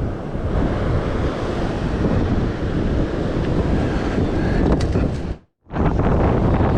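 Wind buffeting the microphone over the wash of sea surf, a steady loud rumble; the sound drops out completely for a split second about five and a half seconds in.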